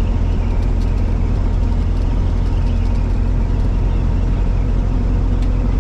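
1974 Ford F-100 with its 390 big-block V8 under way, a steady heavy rumble of engine and drivetrain. It sounds really bad underneath: an axle shaft is working loose.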